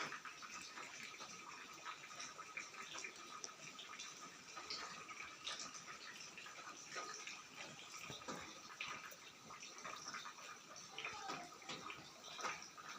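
Faint steady rain falling, with many small scattered drips.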